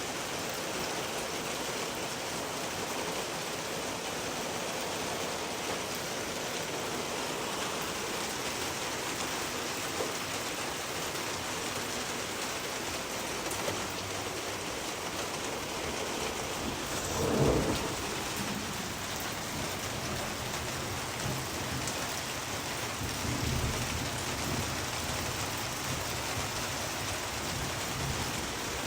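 Steady rain falling with an even hiss. About two-thirds of the way through, a roll of thunder rumbles loudly, and a few seconds later a second, softer rumble follows.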